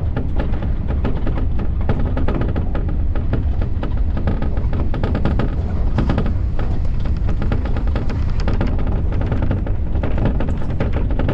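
Keio Inokashira Line electric train running at speed: a heavy steady rumble with dense rattling and clattering of wheels over the rails.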